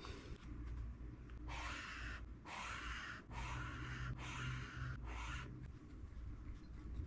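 Highlighter dragged across a book page in four separate swipes of even scratchy hiss, each under a second long, with short pauses between them.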